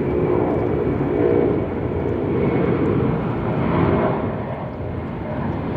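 Heavy jet's engines rumbling loudly at takeoff power as it climbs out after departure.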